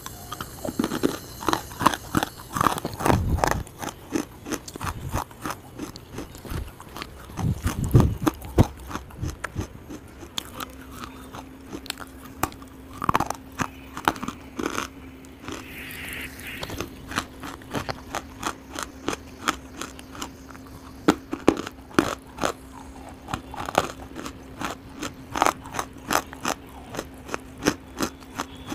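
Biting and chewing hard grey lumps right at a lapel microphone: repeated sharp crunches and crackles, often several a second. A faint steady hum comes in about ten seconds in.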